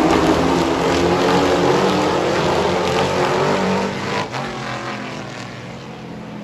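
Several race trucks' engines running at speed around the track. The sound is loudest for the first few seconds and falls away about four seconds in as the trucks move off.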